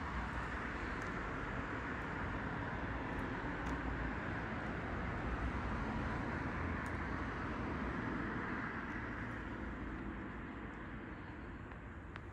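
A motor vehicle running, a steady mix of engine and road noise that slowly fades near the end.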